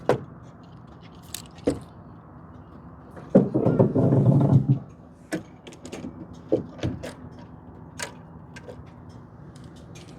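Scattered clicks and knocks of hands working around a car's open engine bay, with one louder rustling scrape lasting about a second and a half, starting about three and a half seconds in.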